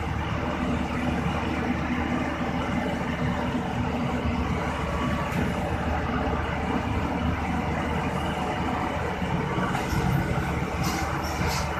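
A heavy engine running steadily, with a few short high-pitched squeaks near the end.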